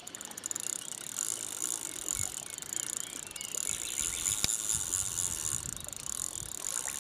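Fishing reel ticking fast and steadily while a carp is played on a hard-bent rod, the line under load. There are low rumbles in places and a single sharp click about halfway through.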